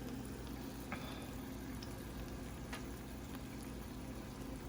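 Steady, faint sizzling and bubbling of hot food cooking, over a low hum, with a couple of light clicks.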